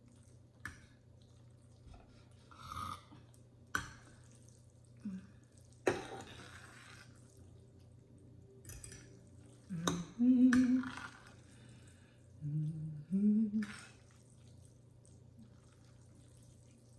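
Noodles being stirred and tossed through black bean sauce: scattered wet squishes and sharp utensil clicks against the container. A couple of short hums from the person mixing come about ten and thirteen seconds in.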